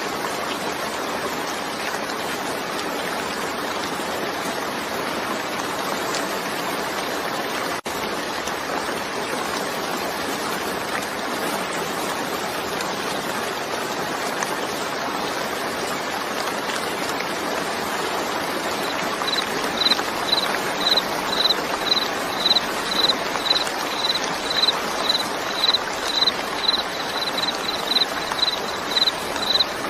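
Steady hiss of heavy rain, dropping out for an instant about a quarter of the way through. Past the middle, a cricket starts chirping at a high pitch about twice a second and keeps on over the rain.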